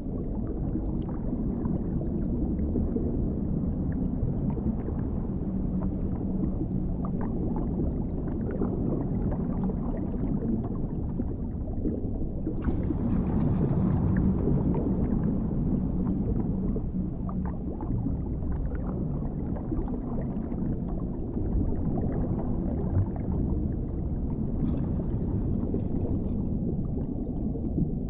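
Dark underwater ambience: a steady deep rumble with scattered small gurgles and bubble clicks. It swells a little with a brighter wash about halfway through.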